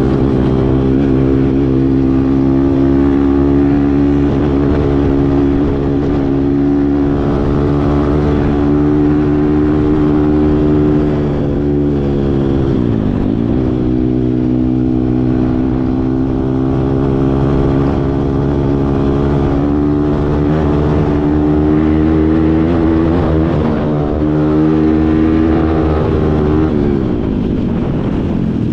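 Kawasaki KLX140 dirt bike's single-cylinder four-stroke engine running under steady throttle. Its pitch dips and climbs back twice, about halfway through and near the end, as the throttle is eased off and opened again.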